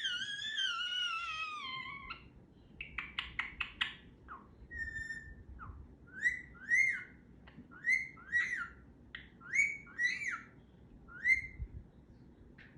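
Pet parrot vocalizing: a long wavering whistle that falls in pitch, a quick run of clicks, then a string of short rising chirps.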